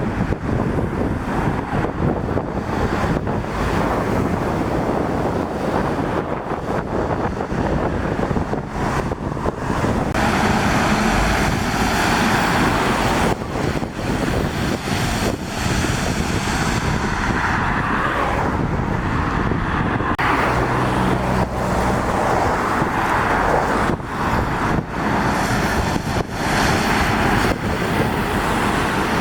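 Road traffic of lorries and cars passing on a rain-wet road, tyres hissing, with wind gusting on the microphone. The hiss of passing vehicles swells about a third of the way in and stays up, with an engine note briefly audible about two-thirds through.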